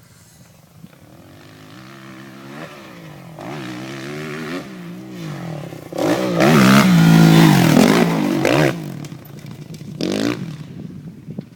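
Kawasaki KX450F four-stroke single-cylinder motocross bike revving up and down as it is ridden on the track, the pitch swinging with the throttle. It grows louder to its loudest about six to nine seconds in, then fades, with one more short rev about ten seconds in.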